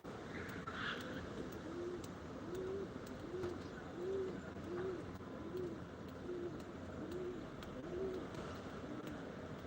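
A bird of the pigeon family cooing over and over, a low arching call repeated about every 0.7 seconds; a brief higher chirp sounds about a second in.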